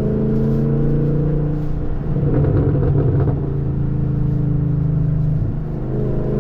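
2023 Camaro SS 6.2-litre V8 running through an exhaust with the muffler and secondary catalytic converters deleted. The engine note climbs gently, turns rougher for about a second a couple of seconds in, then holds steady.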